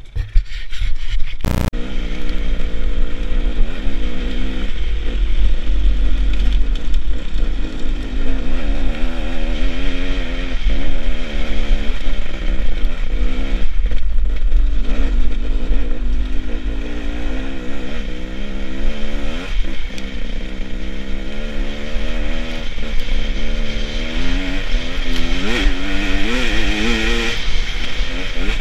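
Beta Xtrainer 300 two-stroke single-cylinder enduro motorcycle being ridden, its engine note rising and falling with the throttle, over heavy wind rumble on the onboard microphone. A single sharp knock comes about a second and a half in.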